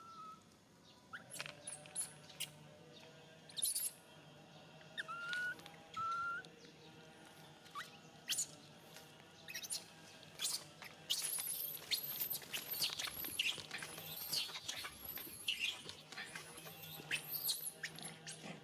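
Macaque monkeys squeaking and squealing: short, high-pitched cries, a few scattered at first, then coming thick and fast through the second half.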